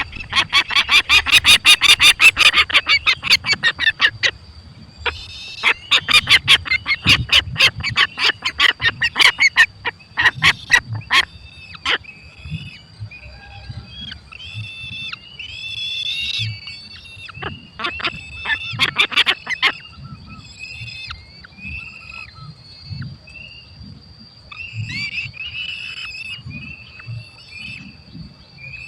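Falcon calling at the nest: long runs of rapid, shrill repeated calls, about five a second, with shorter, softer high calls between the runs.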